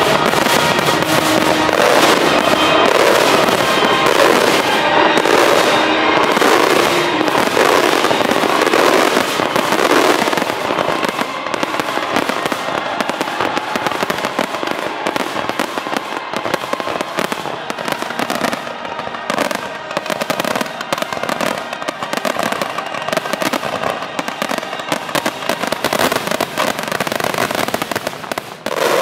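Fireworks finale barrage: a dense, continuous run of rapid bangs and crackling. It thins slightly over the second half and stops abruptly at the very end.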